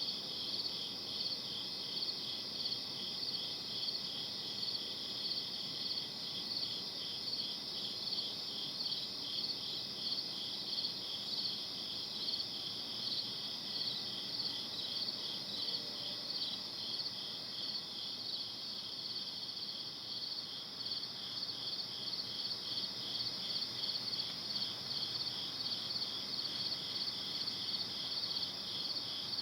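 Crickets chirping in a steady, rapid pulsing chorus, over a faint background hiss.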